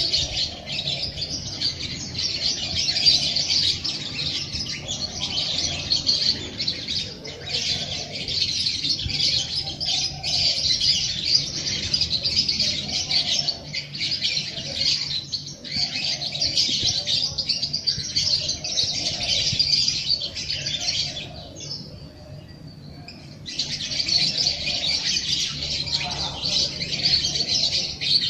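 A dense chorus of many small birds chirping and twittering without pause, broken by a short lull about three-quarters of the way through before the chirping starts again.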